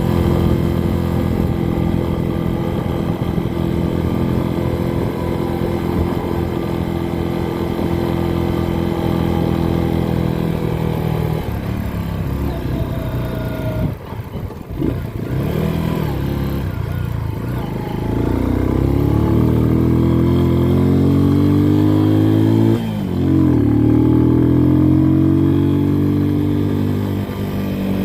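Motorcycle engine running under way. The throttle eases off about halfway through, then the engine revs up again, with a brief drop in revs near the end like a gear change.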